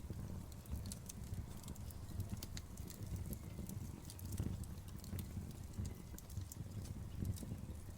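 Campfire burning, with many irregular sharp crackles and pops over a steady low rumble of the flames.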